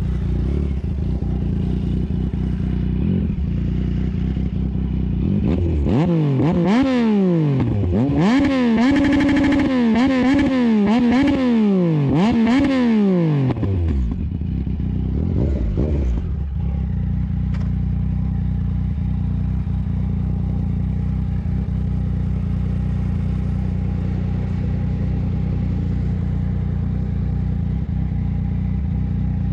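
Yamaha MT-09 three-cylinder engine running at low revs, then revving up and down several times for about eight seconds before dropping back to a steady low running sound.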